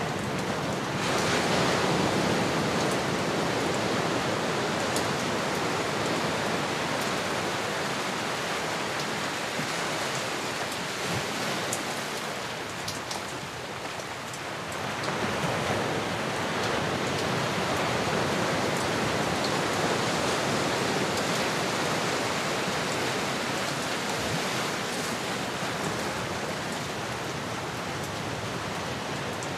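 Recorded ocean surf: a steady rush of waves that swells about a second in, eases off around fourteen seconds and builds again.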